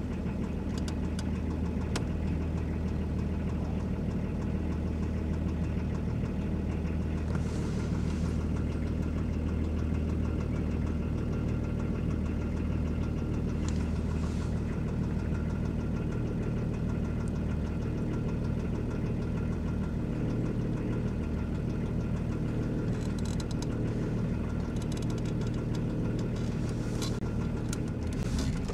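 A car engine idling steadily, heard from inside the cabin as a low, even hum, with a few faint clicks near the end.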